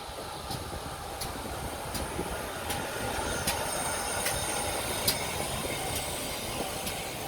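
Steam train hauled by the GWR King-class locomotive King Edward II passing slowly, its wheels clicking over rail joints about every three-quarters of a second, with a faint high wheel squeal.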